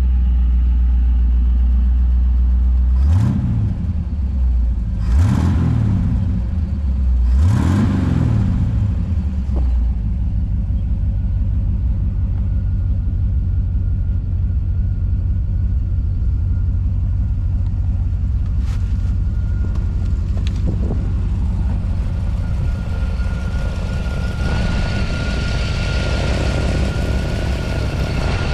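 Hot-rodded 1932 Ford Phaeton's engine, a 1975 Chevy truck engine with an Edelbrock intake and carburetor and shorty tubular exhaust manifolds, running just after start-up. It is revved three times in the first several seconds, then settles into a steady idle. A faint steady whine comes in about halfway through.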